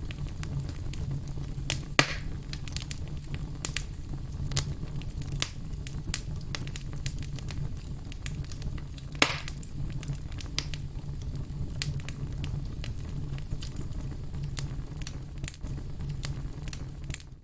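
Burning firewood crackling steadily over a low rumble of flame, with many small sharp pops and two louder ones, about two seconds in and about nine seconds in.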